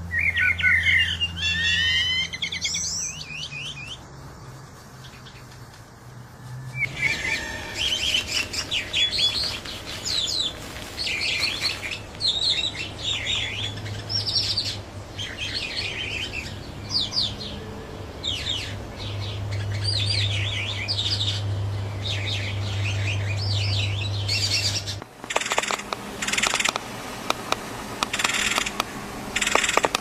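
Birds chirping: many short, high-pitched calls that glide quickly up and down, thickest after the first few seconds. Underneath runs a low steady hum that changes pitch a couple of times.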